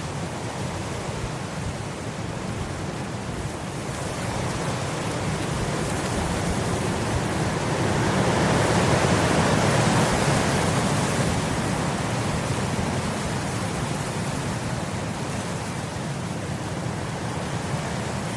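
Wind blowing across grass, a steady rushing that builds to a stronger gust near the middle and then eases off.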